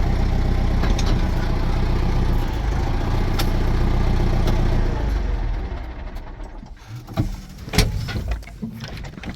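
Case 895 XL tractor's diesel engine running steadily, then shut off about five seconds in and running down. A few sharp knocks follow, the loudest near the end.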